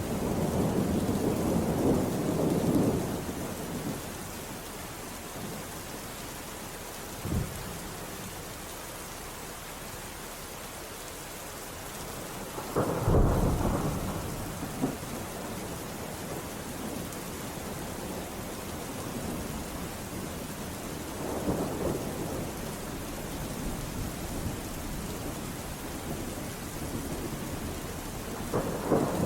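Steady rainfall with rolls of thunder: a rumble fading out over the first few seconds, a brief low thud about seven seconds in, a louder peal about thirteen seconds in, and softer rumbles later and near the end.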